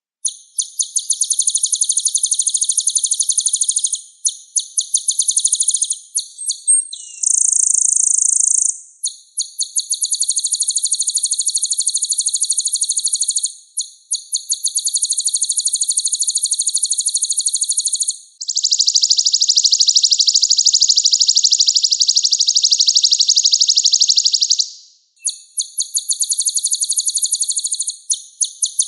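Sunbird, the 'kolibri ninja' of Indonesian bird-keepers, singing high, rapid trills in phrases several seconds long with short breaks. A long unbroken buzzing trill of about six seconds falls near the middle. It is a master song, played for training caged songbirds.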